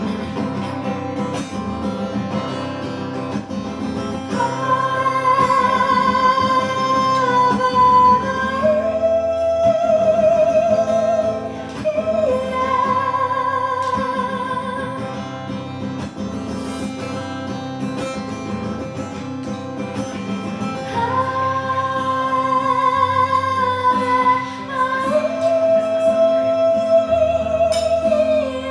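Live acoustic guitar with a singer holding long notes with vibrato, each lasting several seconds.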